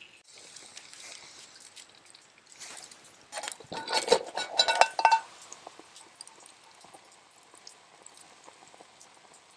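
Tableware clinking: a cluster of light clinks with a ringing note, from about three to five seconds in.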